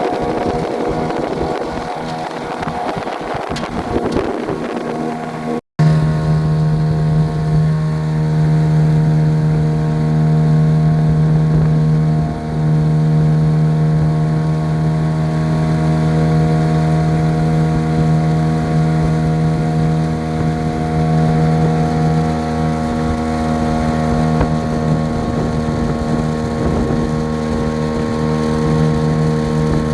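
Boat's outboard motor running at a steady cruising speed, a constant drone. For the first six seconds wind buffets the microphone over the motor; then, after a brief break, the motor's drone is clear and strong.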